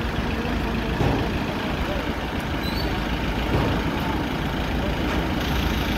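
Tractor engine running steadily at a constant level, with people's voices mixed in.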